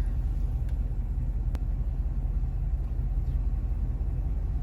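Steady low rumble of a car, heard from inside the cabin, with a single light click about a second and a half in.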